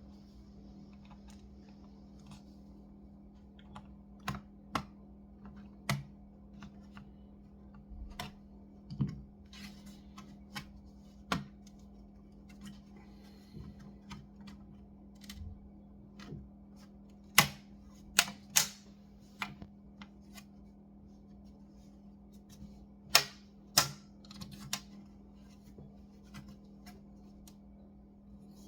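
Irregular sharp clicks and taps of small tools and parts being handled on a laptop during disassembly, over a steady low hum. The loudest clicks come in two close groups, about two-thirds of the way through and again near the end.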